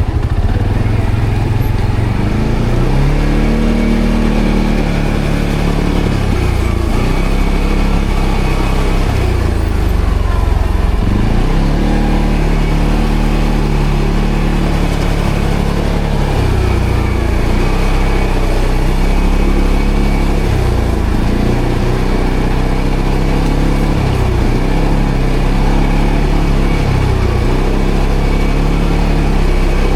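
ATV engine running under changing throttle while riding off-road. The engine note climbs and drops every few seconds as the rider speeds up and eases off.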